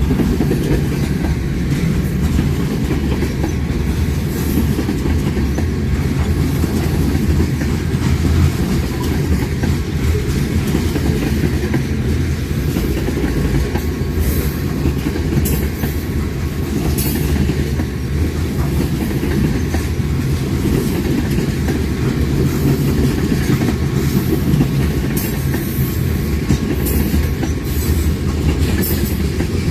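Train cars rolling past with a steady, loud low rumble of wheels on rail. Short, high clicks and squeaks from the wheels come about halfway through and again near the end.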